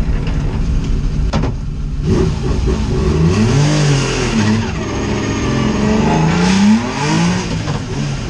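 Racing car engine revving hard, its pitch climbing and dropping several times in quick succession as it accelerates and lifts off, after a couple of sharp knocks near the start.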